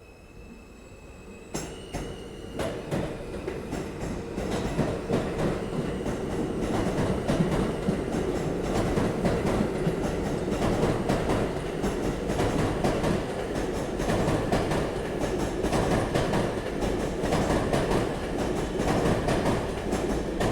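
N subway train running on the rails. It starts with a sharp clank about a second and a half in and grows louder over the next few seconds, then settles into a steady rumble with rapid clicking of the wheels over the track.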